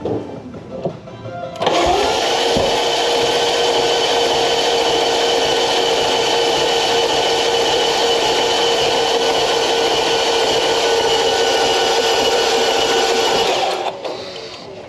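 A BMW F90 M5's twin-turbo V8 cranking on its starter for about twelve seconds without catching. It is a steady whine that rises briefly as cranking begins, with one pop shortly after as the engine tries to fire. The engine has very little compression, which the mechanic puts down to old oil in the hydraulic lifters holding the intake valves slightly open.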